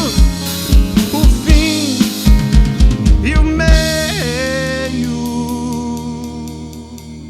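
Live rock band finishing a song: drum kit and band playing on a steady kick-drum beat, then about four seconds in a final chord is held and rings out, fading, over light regular cymbal taps.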